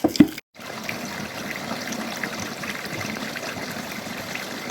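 Running water trickling and splashing steadily, after a sharp knock and a brief break at the start.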